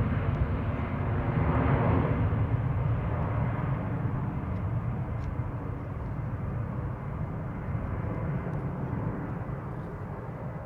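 Airliner engine noise, a steady rumble that fades gradually as the aircraft moves away.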